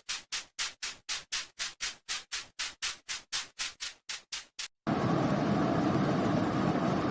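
Cartoon sound effects: a fast, even run of short noisy taps, about four a second. Just under five seconds in, the taps break off for a steady, loud rush of noise.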